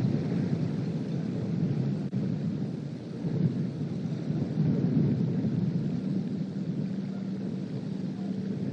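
Strong wind gusting over the bird cam's microphone: a low rumble that swells and eases. A faint steady hum runs under it in the second half.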